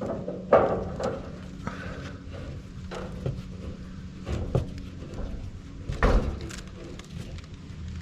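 Hand work on gas pipe fittings: a series of knocks and clunks as fittings and tools are handled, the loudest about half a second in and again about six seconds in, over a steady low hum.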